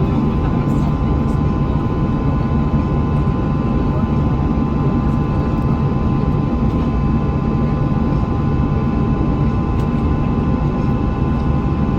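Airbus A321 cabin noise in flight: a steady low rumble of jet engines and airflow with a few steady whining tones over it.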